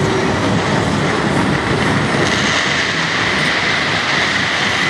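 Fireworks going off in a dense, continuous crackling barrage.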